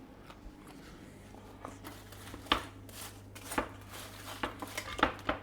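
Scattered knocks and clinks of cookware being handled in a kitchen, a few sharp separate clicks starting about a second and a half in, over a steady low hum.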